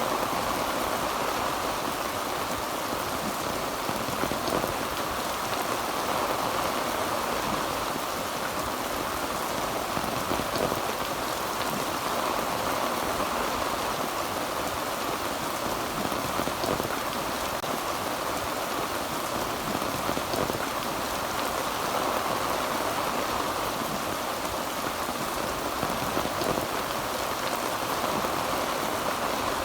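Heavy rain drumming steadily on a tin roof, a dense even patter of drops.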